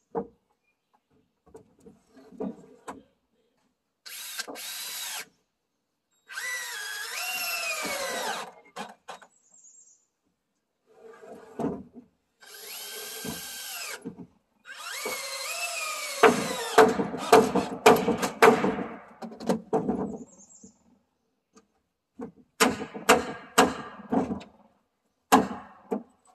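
Cordless power drill driving long deck screws into new deck boards, in about five separate runs of a few seconds each. The motor's pitch sags as each screw bites into the wood, and the later runs are broken by rapid clicking and knocking as the screws seat.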